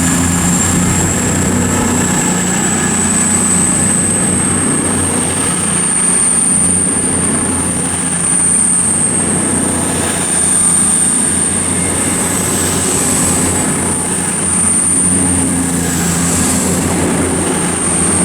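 Class 221 Voyager diesel-electric train running its engines with a steady low drone, alongside a high whine that rises slightly and then holds steady.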